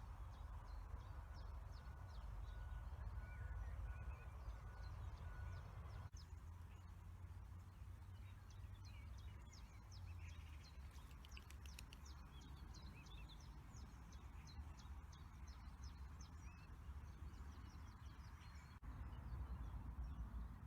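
Faint birdsong: several small birds chirping and calling in short high notes, busiest around the middle, over a low steady rumble of wind.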